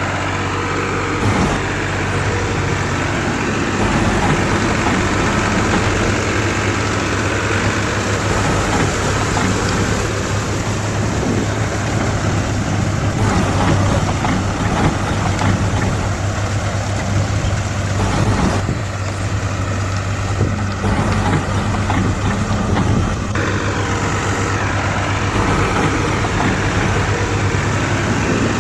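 A heavy engine running steadily at idle, a continuous low hum with a rough noise over it.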